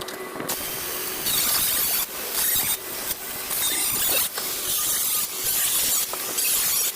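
A power tool run in repeated bursts of about a second with short pauses between, a high-pitched hissing squeal.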